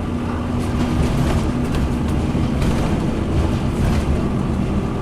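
Scania N230UD Omnicity double-decker bus running, its engine a steady low drone with light rattles from the bus body.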